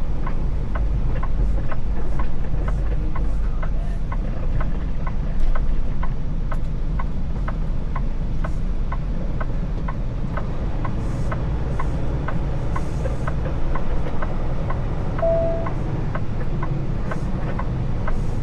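Semi-truck running, heard from inside the cab as a steady low engine rumble, with the turn-signal or hazard flasher ticking about twice a second. A short beep sounds about fifteen seconds in.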